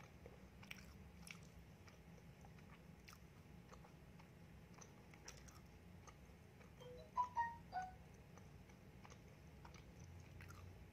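Faint, close-miked chewing of soft donut with the mouth closed, with small wet mouth clicks. About seven seconds in comes a quick cluster of short chirps, the loudest sound.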